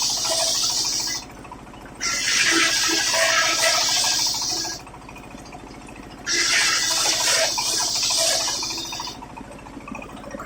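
Sawmill circular saw blade ripping waru wood into battens, in repeated cuts: a loud rushing cut runs into the first second, another from about two to five seconds in, and a third from about six to nine seconds. Between cuts the saw keeps running with a steady hum.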